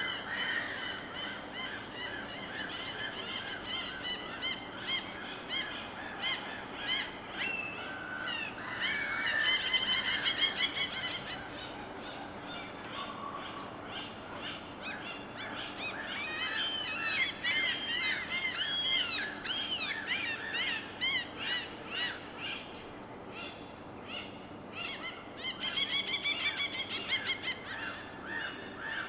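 Birds calling over a steady low hiss: many overlapping harsh, honking calls, some in quick runs and some rising and falling, busiest about ten seconds in, through the middle, and again near the end.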